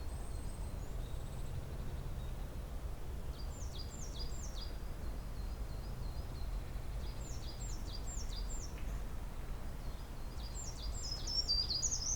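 A songbird singing short high phrases of three or four quickly repeated down-slurred notes, three times a few seconds apart, the last near the end the loudest, over a low steady rumble.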